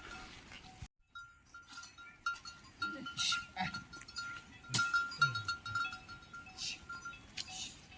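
Goats bleating a few short times, with a thin high pulsing note running behind them.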